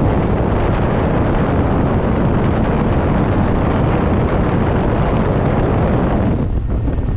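Steady rush of wind and road noise from a classic car driving at speed, with wind buffeting the microphone. The rush thins somewhat about six and a half seconds in.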